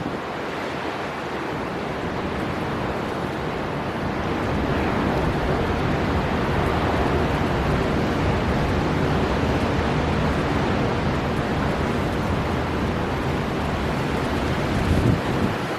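Storm wind and heavy surf at the sea: a dense, steady rush of wind and breaking waves that swells slowly and stays high through the middle, with a few low gusty thumps near the end.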